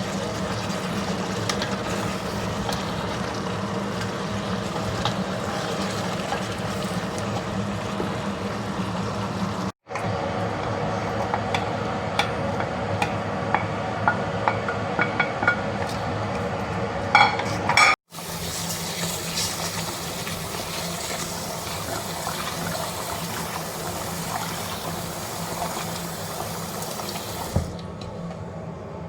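Eating sounds from a bowl of stew: wet mouth and liquid sounds with scattered sharp clicks of a utensil, over a steady background hum. The sound cuts out completely for an instant twice, about ten and eighteen seconds in.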